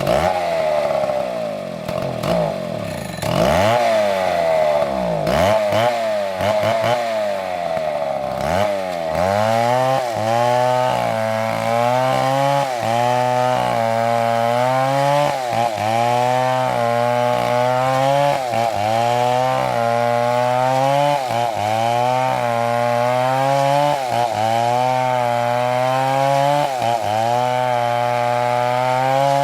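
Chainsaw engine running hard in wood. For the first nine seconds or so it runs high with a wavering pitch, then settles to a lower steady note that dips briefly and recovers about every two seconds.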